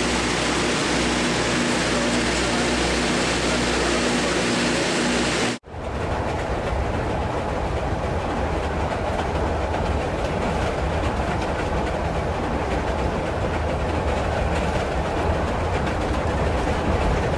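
A steady mechanical hum at the station, cut off suddenly about five seconds in, then the inside of a moving passenger rail car: the carriage running along the track with a steady low rumble and rattle.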